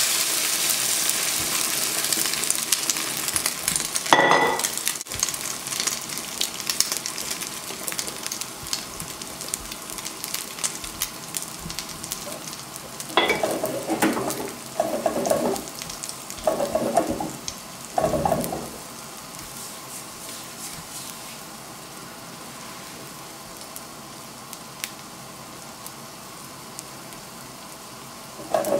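Spanish omelette mixture of beaten egg, potato and onion frying in hot olive oil in a small nonstick pan: a loud sizzle as it goes in, easing to a quieter steady sizzle. A clink about four seconds in and several short scrapes and knocks around the middle, from the wooden spatula and bowl against the pan.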